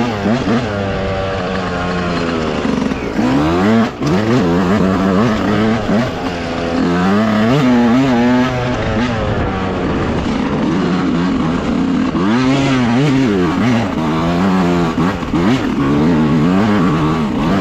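Dirt bike engine revving up and down as it is ridden, its pitch climbing and dropping again and again with the throttle and gear changes, with a brief drop about four seconds in.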